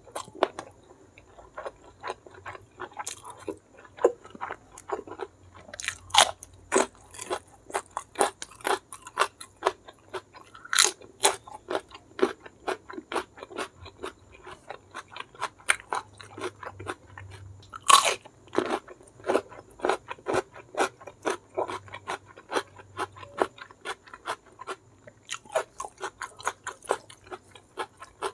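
Close-up chewing and crunching of a mouthful of blood clams in chili sambal with petai beans and rice: many sharp, wet mouth clicks and crunches, a few every second, with louder crunches about six seconds in and again near eighteen seconds.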